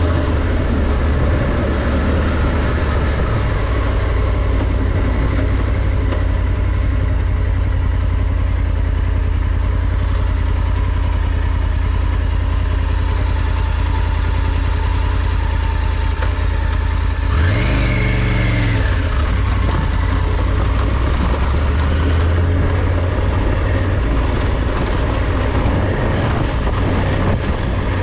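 Triumph Tiger 900 GT's inline three-cylinder engine running under way, over a steady rushing noise. About two-thirds of the way through, the engine note sweeps up and back down briefly.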